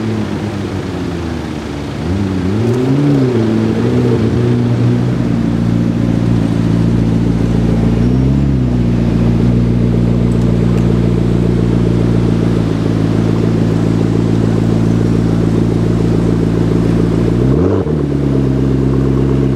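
McLaren MP4-12C's twin-turbo V8 running steadily at low revs, with a few light blips of the throttle in the first few seconds, a short rev about eight seconds in, and another quick rev near the end.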